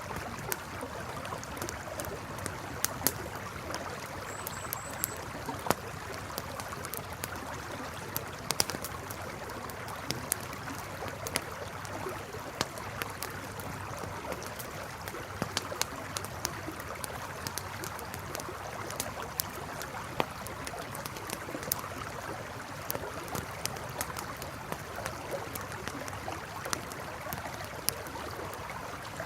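A river flowing steadily, with a campfire crackling over it in frequent, irregular sharp pops.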